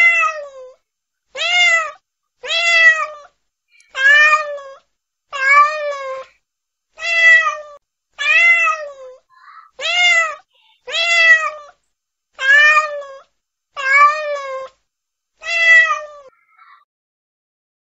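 A cat meowing over and over: about a dozen separate meows, roughly a second and a bit apart, each rising then falling in pitch.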